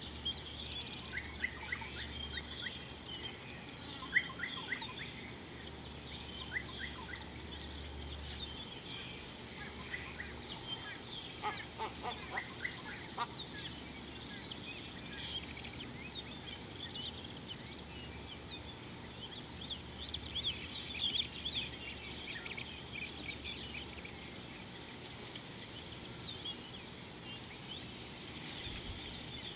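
Chorus of wild birds chirping, with many short, quick calls overlapping and a few lower calls midway. A low steady hum sits underneath in the first several seconds.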